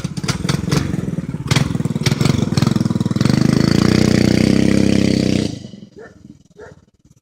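Small engine of a homemade minibike running with a fast, even firing beat, revving up about three seconds in and holding there, then cutting off abruptly near the end, followed by a few faint clicks.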